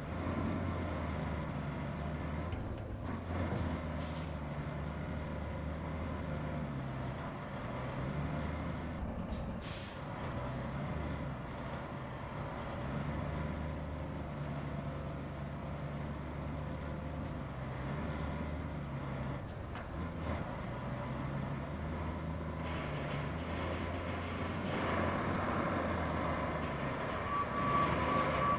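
Heavy truck diesel engine running under load, its revs rising and falling in steps, with a couple of short hissing bursts. A brief high beep near the end.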